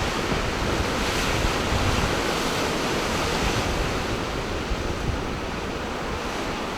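Sea surf washing in: a steady hiss that swells about a second in and eases off a few seconds later, with wind rumbling on the microphone.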